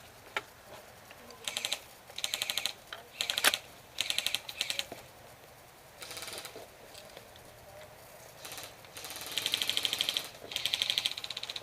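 Airsoft electric guns firing full-auto, a fast rattle of about fifteen shots a second in short bursts about two to four and a half seconds in, then longer bursts from about nine seconds on. A single sharp crack, the loudest sound, stands out about three and a half seconds in.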